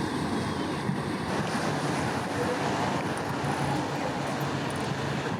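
Steady outdoor waterside noise: wind and lapping water with a low, even engine hum of a boat.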